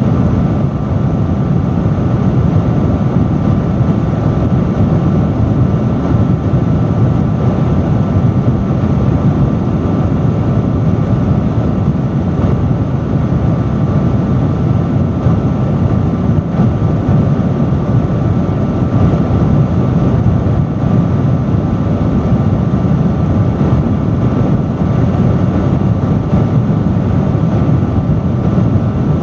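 Industrial fan running loud and steady: a constant rush of air, heaviest in the low range, with a faint steady whine on top.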